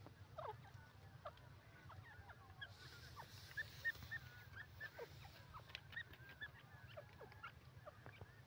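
Faint, scattered short bird calls: quick chirps and soft downward-sliding notes, a little busier between about 3 and 4.5 seconds, over a low steady hum.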